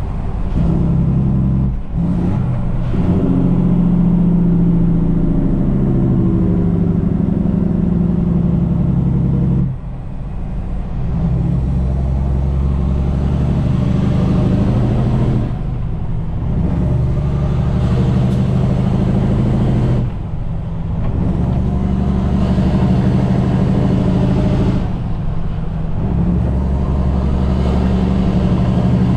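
Heavy truck's diesel engine pulling a heavy load, its note cutting out briefly about every five seconds, four or five times, and picking up again: the breaks of gear changes as the truck gets up to speed.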